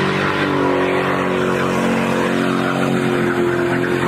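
Off-road 4x4's engine held at steady high revs under load, with a loud rushing noise over it.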